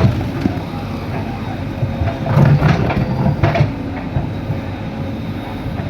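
JCB 3DX backhoe loader's diesel engine running with a steady whine over it, with a burst of clanking and knocks about two to three and a half seconds in.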